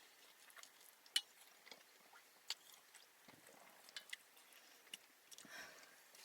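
Faint close-up chewing and lip-smacking of someone eating steak, with a few sharp wet clicks, in a car cabin.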